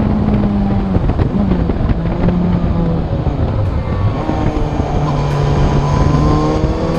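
Motorcycle engine running under way, its note shifting down and up as the throttle changes, over a steady rush of wind on the microphone.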